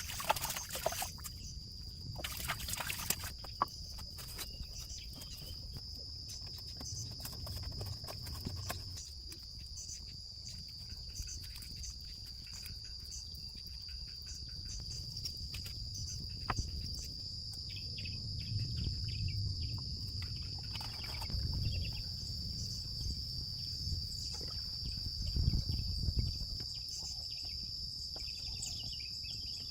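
Insects, crickets or cicadas, keeping up one steady high-pitched buzz throughout, with scattered light clicks and knocks and low rumbling underneath.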